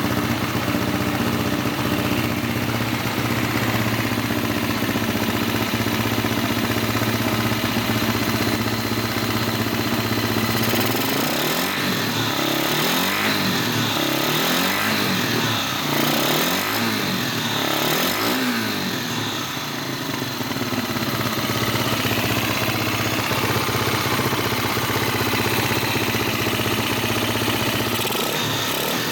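Yamaha Serow 225 (1KH) single-cylinder four-stroke motorcycle engine, idling steadily, then revved in a run of quick throttle blips that rise and fall, then settling back to idle. A few more blips come near the end.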